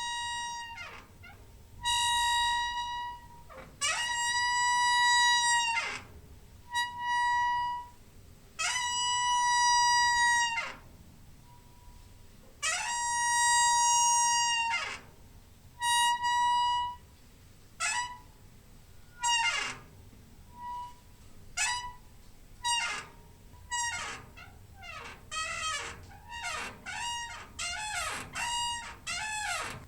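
Door hinge squeaking as the door is swung back and forth: a series of high-pitched creaks, each sliding up into a held squeak and back down. The first half has several long squeaks of about two seconds each; near the end come shorter squeaks in quick succession.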